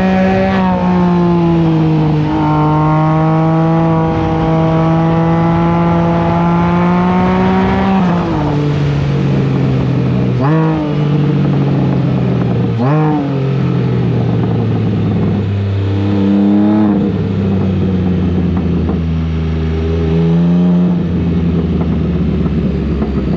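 Can-Am Spyder F3-S three-cylinder engine accelerating hard through the gears. It makes one long rising pull for several seconds and drops in pitch at a gear change, then gives two quick sharp rev spikes and several shorter rising pulls, over a steady rush of wind.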